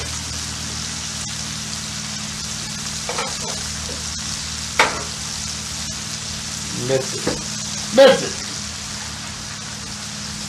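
Skirt steak, onions and peppers sizzling steadily on a hot flat-top griddle, with a few sharp clicks of a metal utensil against the steel.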